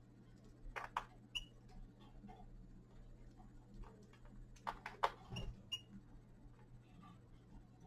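Caged finches feeding and moving about: scattered sharp clicks in two clusters, about a second in and about five seconds in, with a few brief high chirps among them.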